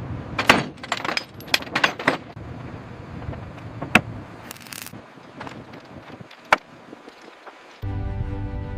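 Metallic clanks and clinks from the salvaged Chinook wreck being set down on touchdown: a quick flurry of sharp knocks in the first two seconds, then a few single sharp clinks. Background music comes in near the end.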